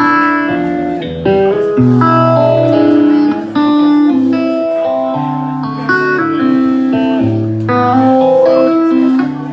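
Live country band playing an instrumental break: a guitar carries the melody in held, sliding notes over bass and chords.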